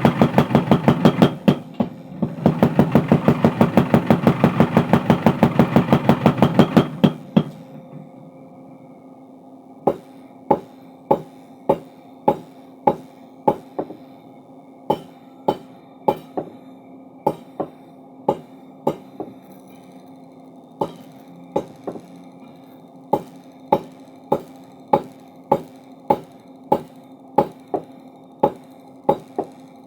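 Mechanical power hammer forging a steel crowbar. It pounds in rapid, even strokes for about seven seconds, then stops. After that the machine keeps humming while slower hammer blows ring on the metal, about one and a half a second.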